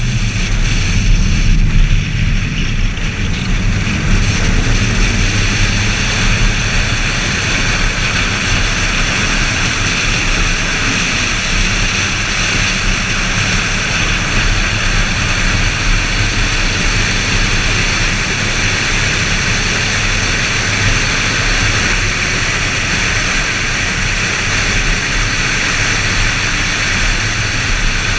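BMW Z4 M Roadster's S54 inline-six running steadily at speed on track, under a loud, steady rush of wind noise and rumble.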